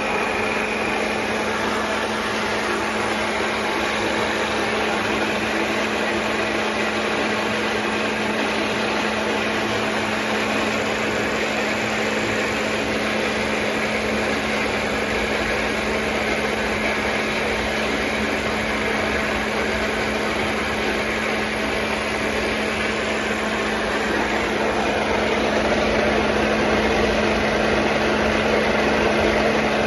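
Speck NP16/15-210 high-pressure plunger pump with its 5.5 kW electric motor running steadily: a constant mechanical hum with a strong low tone and an even spread of noise, growing a little louder near the end.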